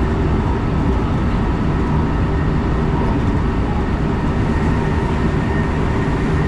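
Steady low rumble and hum of a JR West Kyoto Line train, heard from inside the front passenger car, with a few faint steady tones over it.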